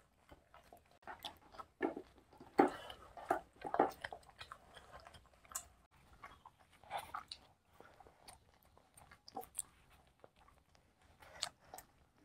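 Two people chewing and biting pizza and soft bread rolls: irregular wet mouth sounds and bites, busiest about two to four seconds in.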